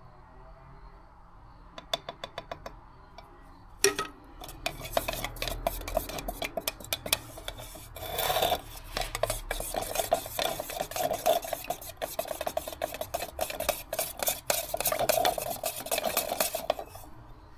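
Paint being stirred in a paint can: the stirring stick scrapes and clacks rapidly against the can's sides, mixing a darkening tint into white base coat. A short run of light taps about two seconds in and a single knock just before the stirring starts.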